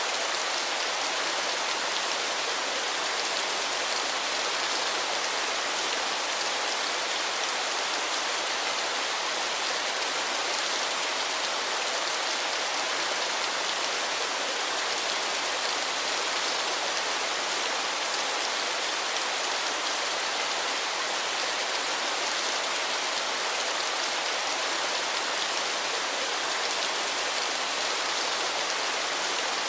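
Waterfall: falling water rushing steadily, a hissing, splashing noise without breaks.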